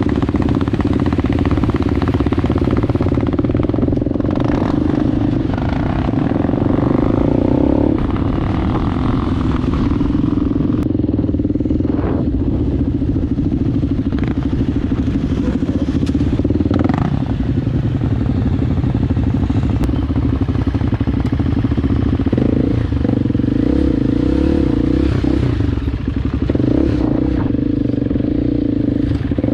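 Enduro motorcycle engine running steadily, its pitch stepping up and down a few times, with a few short knocks along the way.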